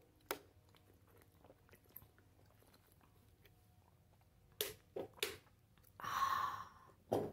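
A person eating close to the microphone: a few sharp mouth clicks and smacks of chewing, spread out with quiet between them, and a short rush of noise about six seconds in.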